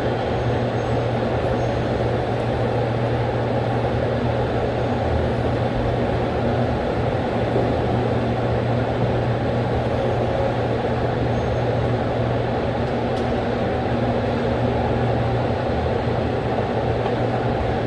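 A steady low mechanical hum under an even rushing noise, with no change in level.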